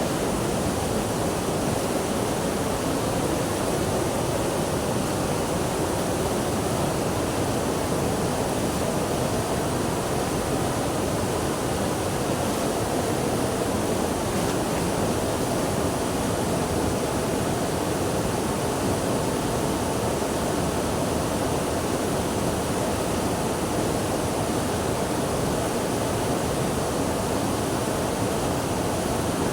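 Steady, continuous rushing of flowing water, an even wash of sound with no breaks.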